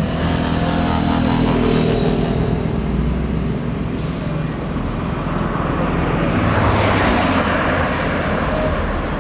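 Heavy diesel truck engine running steadily, with road traffic around it. A quick run of short high-pitched chirps comes about three seconds in and again faintly near the end, and a brief hiss about four seconds in.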